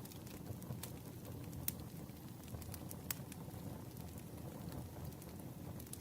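Campfire burning: a steady low rush of flames with a few sharp crackles and pops scattered through it.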